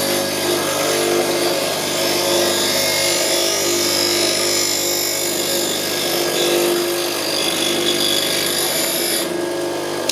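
Bench grinder running with a steel turning tool held against the wheel, sharpening its edge: a steady motor hum under a bright grinding hiss. The hiss stops about nine seconds in as the tool comes off the wheel, while the grinder keeps running.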